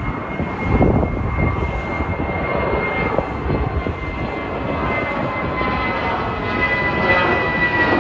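Jet airliner's turbofan engines running, a steady high whine over a broad rumble, the whine dipping slightly in pitch near the end.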